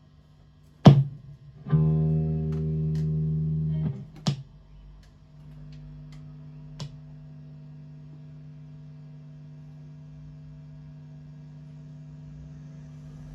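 Two sharp pops from guitar amps about three and a half seconds apart, with a loud held electric guitar note between them that cuts off shortly before the second pop, then a steady amp hum. These are random little pops from a stereo rig of two amps fed by a Y-split adapter, which the owner takes to be harmless.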